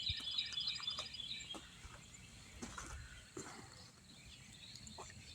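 Faint outdoor ambience with birds chirping, including a quick high trill in the first second, and a few light clicks.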